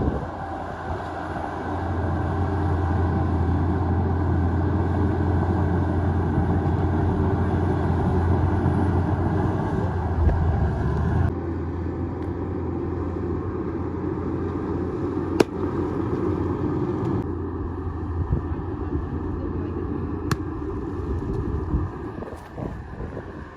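Bulldozer's diesel engine running steadily with a deep low hum, its sound changing abruptly twice partway through, with two brief sharp clicks.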